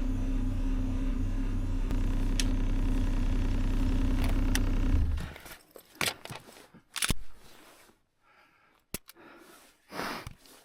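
A steady low droning hum that cuts off about halfway through, followed by scattered sharp clicks and knocks with scraping handling noise.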